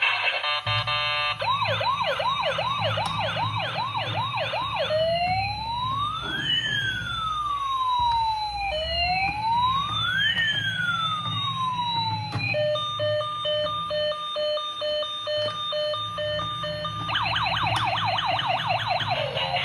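Electronic siren sound from a toy remote-control emergency vehicle, cycling through patterns: a fast warble, then two slow rising-and-falling wails, then steady beeping tones, then the fast warble again near the end.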